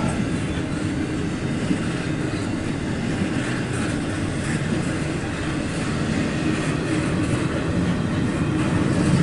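Double-stack container cars of a CSX intermodal freight train rolling past, a steady rumble of wheels on rail with occasional clacks.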